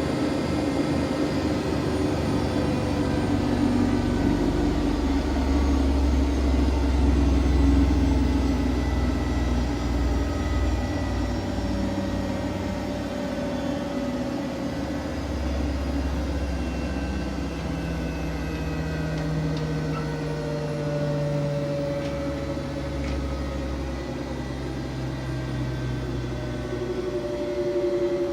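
Siemens Siwamat iQ 716 washing machine running: a steady low motor hum with a thin whine that slowly falls in pitch over the course of the sound.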